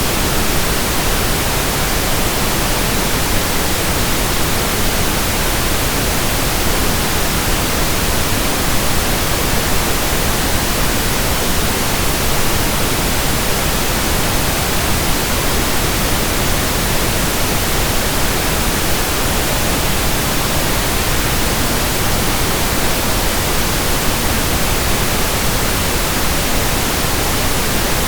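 Steady pink noise: an even, unbroken hiss with no changes.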